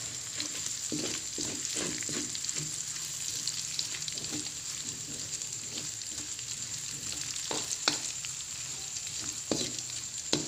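Ground spice paste sautéing in oil in a wok, a steady sizzle, while a spatula stirs it and scrapes and taps against the pan, with a few sharper clicks in the last few seconds.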